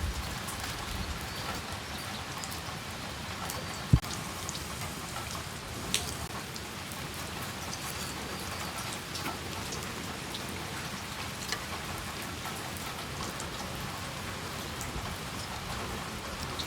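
Steady rain falling on surfaces, with scattered individual drops ticking and a single sharp knock about four seconds in.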